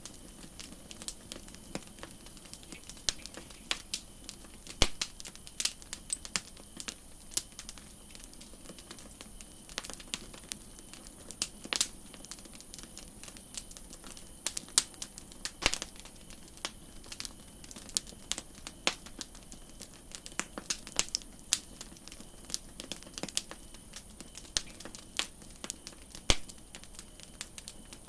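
Campfire crackling: irregular sharp pops and snaps of burning wood, several a second, over a faint steady high hiss.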